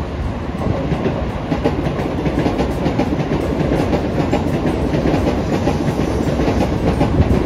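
A train running past at close range: a steady rumble of wheels on rails with many sharp clicks from the wheels crossing rail joints.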